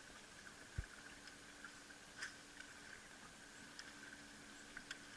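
Near silence: faint outdoor ambience with a steady high hum, a single low thump about a second in, and a few faint clicks.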